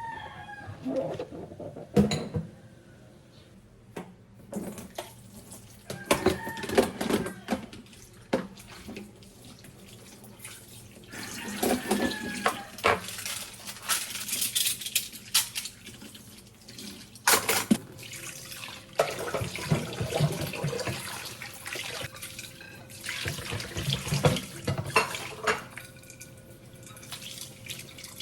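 Kitchen tap running into a sink while dishes, pots and cutlery are washed by hand, clinking and knocking against each other. The water runs in spells, with stretches of clattering between.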